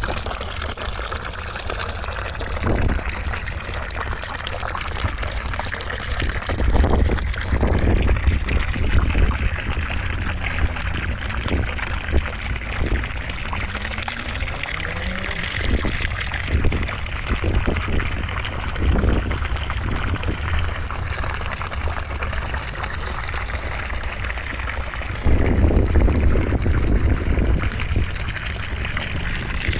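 Steady rushing white noise with the sound of gushing running water, its tone slowly wavering. It swells a little louder about seven seconds in and again near the end.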